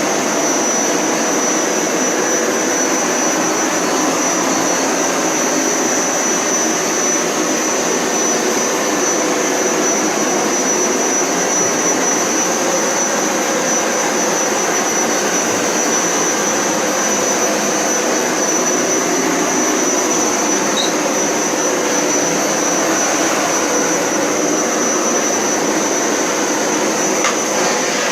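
Hoover Power Scrub Elite Pet upright carpet cleaner running steadily through a wash or rinse pass, with a constant motor rush and a thin high whine.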